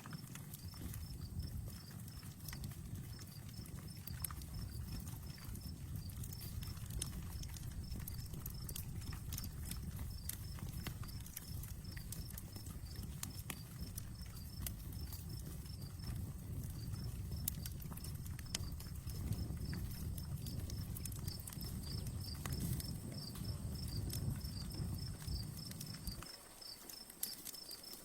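Campfire crackling with scattered sharp pops, crickets chirping steadily, and a low rumble underneath that cuts off abruptly near the end.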